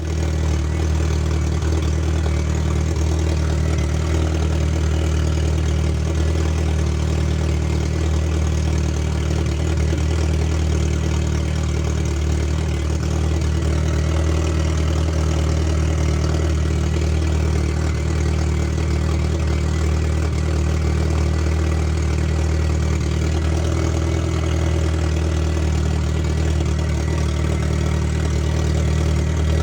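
A Fiat car engine idling steadily at an even, unchanging speed.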